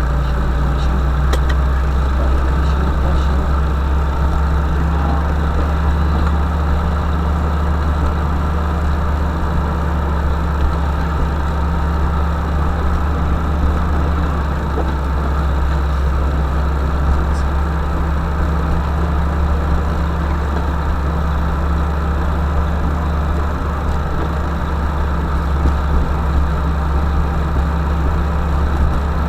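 Vehicle engine running steadily, a continuous low hum at an even pitch.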